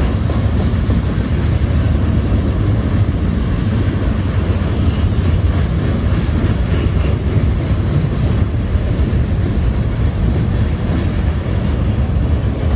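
CSX freight train's cars rolling past steadily, a continuous heavy rumble of steel wheels on the rails.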